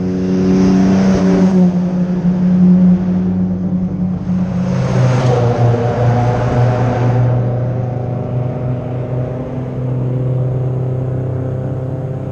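Engines of classic rally cars running, with a steady engine drone throughout. Two cars pass by, at about a second in and around five seconds in.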